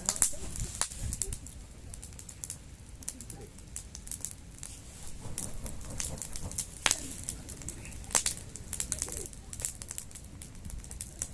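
Wood campfire crackling, with irregular sharp pops scattered throughout and a few louder snaps.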